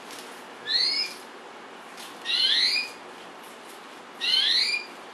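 A bird calling: three short rising calls about two seconds apart, each a quick upward-sliding note, over a steady hiss.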